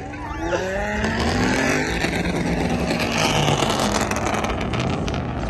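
A car engine revving hard, its pitch climbing and falling several times, with a dense rushing noise over it.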